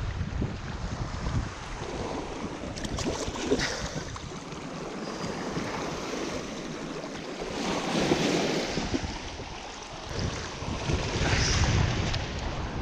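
Wind buffeting the microphone over the wash of small waves on choppy water, with a few brief clicks.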